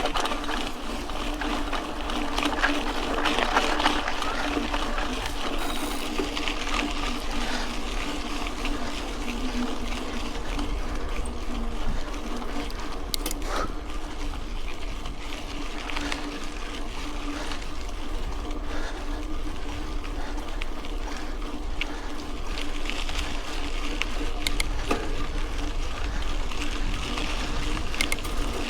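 Mountain bike rolling on a dirt road: steady tyre noise on the loose surface, with scattered clicks and rattles from the bike.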